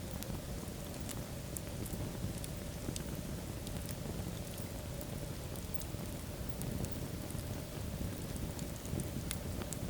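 Wood fire burning in a fireplace: a steady low noise of the flames with scattered, irregular sharp crackles and pops.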